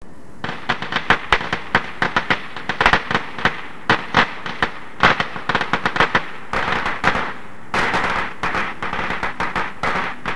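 Fireworks crackling and banging: a rapid, irregular run of sharp cracks over a fizzing hiss, which thickens about six and a half seconds in.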